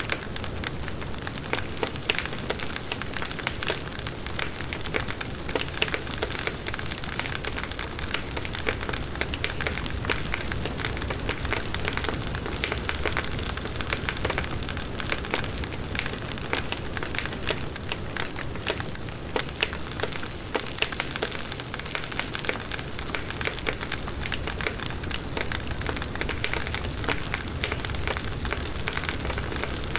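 Firewood burning in a campfire, crackling steadily with a dense run of small snaps and pops.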